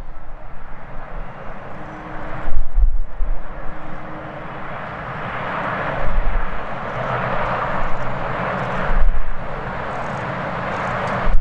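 Jet airliner's engines roaring on its takeoff run, the roar swelling to its loudest about two-thirds of the way in. Strong gusting wind buffets the microphone with repeated low thumps.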